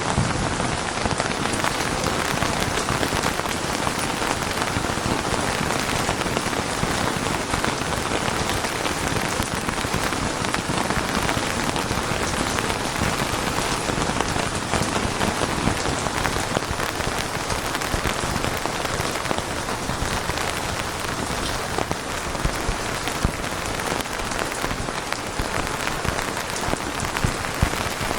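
Steady, heavy rain falling on surfaces, a dense hiss of patter with many individual drop hits.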